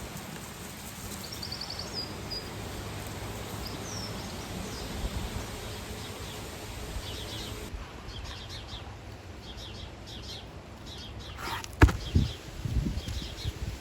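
Outdoor background with small birds chirping on and off. Near the end comes one sharp knock, followed by uneven soft thumps and rustling.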